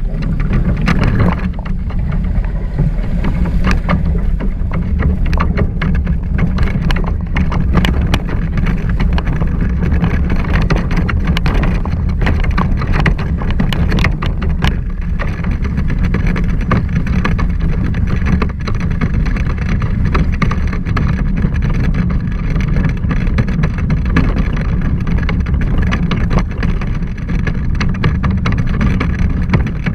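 Wind buffeting the microphone over water rushing past the hull of a Hobie 16 catamaran under sail: a loud, steady rumble with constant crackles and splashes.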